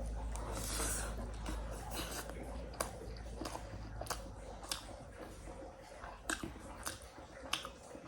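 Close-miked chewing of a rice-and-curry meal: wet mouth sounds with a few sharp clicks every second or two.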